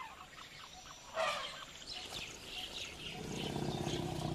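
Wild birds calling and chirping in a chorus of short calls, with one louder call about a second in. From about three seconds a low steady hum builds underneath.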